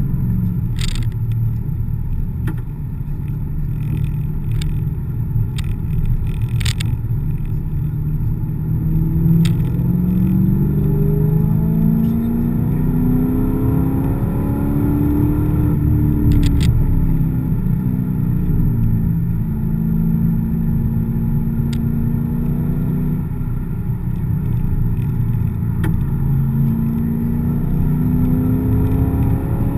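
Corvette V8 engine heard from inside the cabin while lapping a wet track, over a steady rumble of road and tyre noise. The engine note climbs several times as the car accelerates and drops back between pulls, with a few brief sharp clicks in between.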